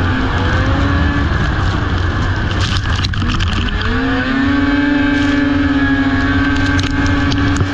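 Racing snowmobile engine running at high revs under heavy wind rumble. The pitch dips about three seconds in, then climbs back and holds steady.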